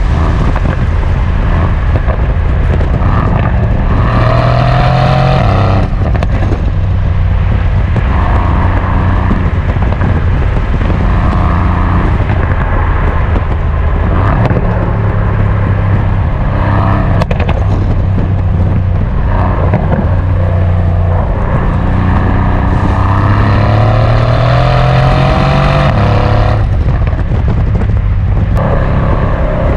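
Mercedes-AMG C63 S coupe's twin-turbo V8 on the road. It runs at a steady pace most of the time, with two hard pulls, about four seconds in and again past twenty seconds, each rising in pitch and cut off suddenly at a shift or a lift of the throttle.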